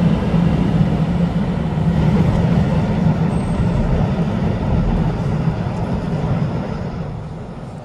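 Taiwan Railways EMU900 electric multiple-unit train pulling out of the station, its low running rumble steady and then fading away from about six seconds in as it leaves.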